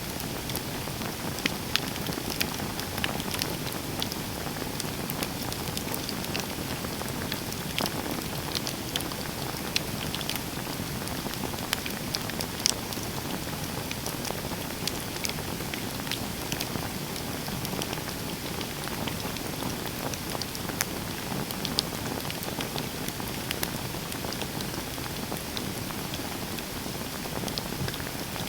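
Campfire burning with a steady low rush of flames and many sharp, irregular crackles and pops from the burning wood.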